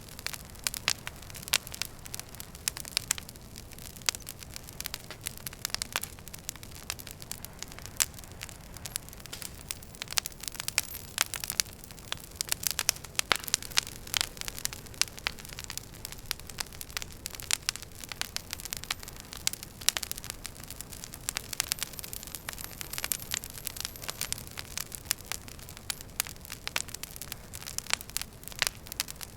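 Wood fire in a fireplace crackling: many sharp, irregular pops and snaps over a steady low hiss.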